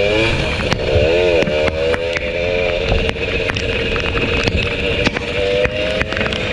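Two-stroke motorcycle engine running hard. Its note dips and climbs back about a second in, then holds steady. Sharp, irregular ticks run throughout, from heavy rain striking the camera.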